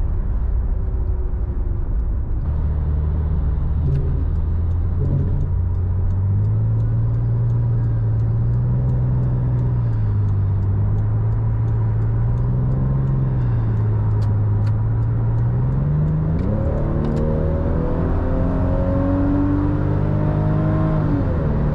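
Toyota Supra MK4's 2JZ straight-six engine pulling steadily at low revs with small swells of throttle. About three-quarters of the way through it accelerates, its note rising for several seconds, then drops sharply near the end.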